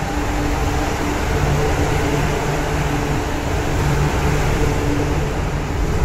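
MTR Q-train electric multiple unit pulling out of the station past the platform screen doors. Its wheels rumble on the track and its traction motors hum with a few steady tones that come and go.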